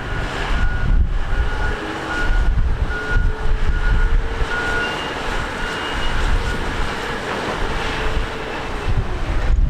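Jet airliner engines, a steady rush with faint whining tones, with wind gusting on the microphone.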